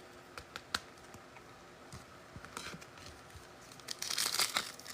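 Trading cards being handled, with a few light clicks and taps. From about four seconds in, a dense crinkling of a card pack wrapper.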